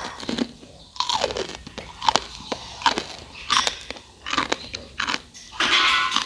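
Close-up crunching and chewing of a crisp, dry fried snack, a sharp crunch every second or so, with a longer, louder crunch near the end.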